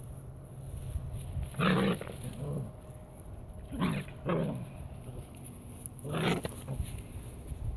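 Young puppies, six to seven weeks old, give five short barks at irregular gaps, some of them in quick pairs, over a low rumble of wind on the microphone.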